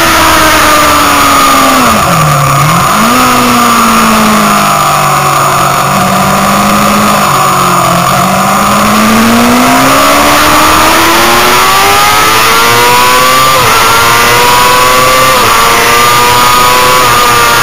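Motorcycle engine heard from an onboard camera at racing speed: its pitch drops as it slows about two seconds in, stays low for several seconds, then climbs steadily under acceleration with a few brief hitches, over a constant rush of noise.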